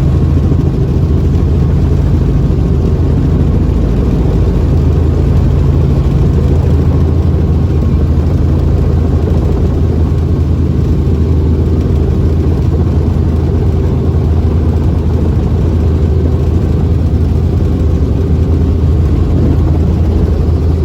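Helicopter engine and rotor noise: a loud, steady drone with strong low hum that holds unchanged throughout.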